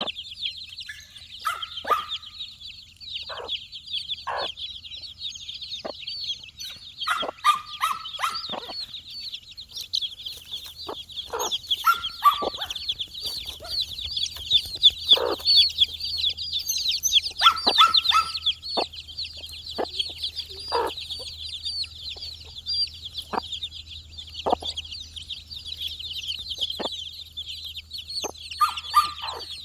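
A flock of four-day-old chicks peeping constantly, many high chirps overlapping, with occasional lower, louder calls and short sharp sounds among them as they forage.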